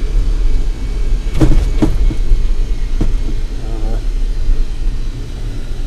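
Smith Cabac electric milk float driving under a heavy load: a steady low rumble with a few sharp knocks or rattles, about a second and a half in and again about a second later.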